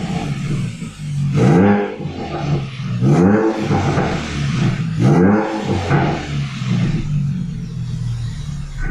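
Ford Focus RS's turbocharged four-cylinder engine, fitted with a 3-inch cat-delete exhaust, revved from idle in three short blips, each rising and dropping back, with burbles and pops from the exhaust. The newly fitted Turbosmart blow-off valve's whoosh is barely heard under the exhaust.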